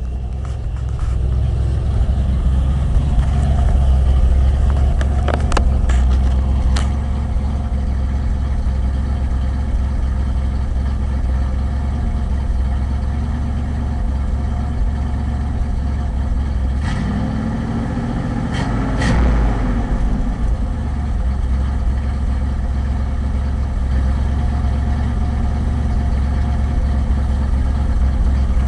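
1980 Ford F-100's 302 small-block V8 with a two-barrel carburettor idling steadily, heard at the exhaust, with a misfire the owner puts down to the engine still sucking air. About two-thirds of the way through, the pitch briefly rises and falls.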